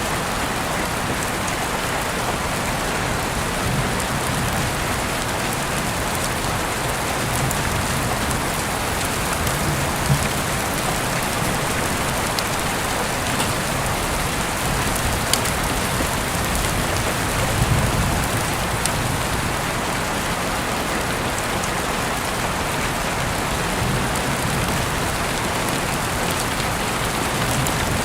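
Steady rain falling, an even hiss with scattered sharp drop ticks. A low rumble underneath swells briefly a few times, most strongly about two-thirds of the way through.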